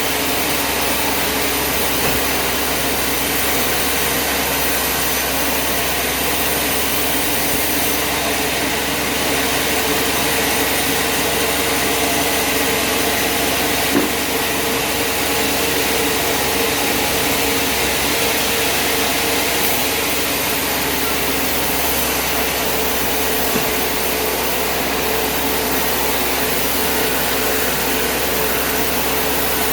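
Sawmill machinery running steadily without a break, with a single sharp click about halfway through.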